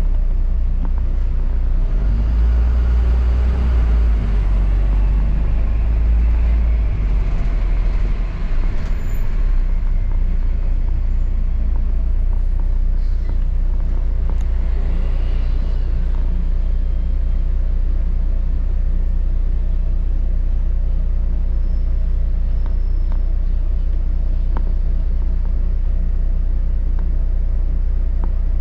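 London double-decker bus on the move, heard from on board: a steady low rumble of engine and road noise, heavier for the first several seconds before settling.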